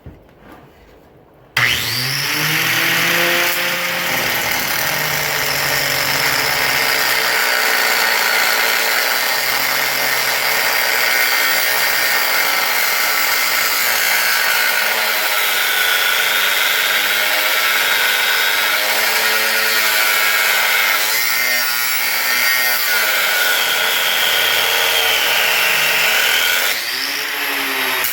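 Power tool cutting through an old broken steel exhaust bracket: a steady high whine that sags and recovers as it bites into the metal. It starts about a second and a half in and stops just before the end.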